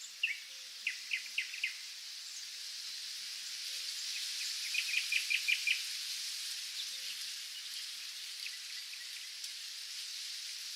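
Nature ambience of small birds chirping over a steady high-pitched hiss. There are four sharp chirps about a second in, then a quick run of about seven notes near the middle, with fainter calls after.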